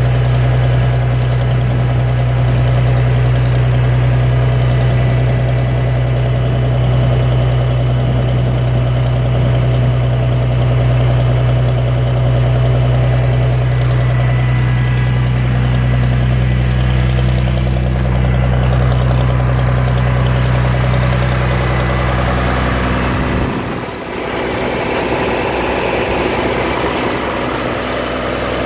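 IHC Farmall 460 tractor's six-cylinder gasoline engine idling steadily just after a cold start below freezing, choke pulled. Near the end the deep hum drops away and the sound briefly dips and changes.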